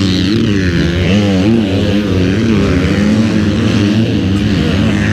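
Several pit bike engines running together, their pitch rising and falling as they rev and ease off.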